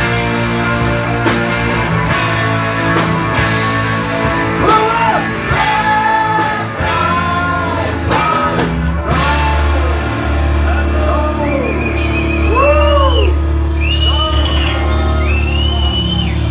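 Rock music: a band with electric guitar, drums and a singing voice. From about five seconds in, a run of repeated rising-and-falling wailing notes.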